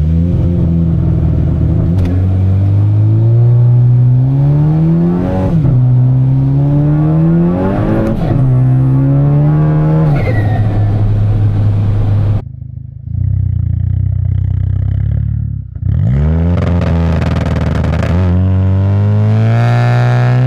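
Turbocharged 2.0 L four-cylinder of a big-turbo MK6 VW GLI, heard through its exhaust mic, pulling hard through the gears: the engine note climbs, drops at each upshift about 5, 8 and 10 seconds in, then falls away as the throttle is lifted about 12 seconds in. After about three seconds it revs up and pulls again to the end.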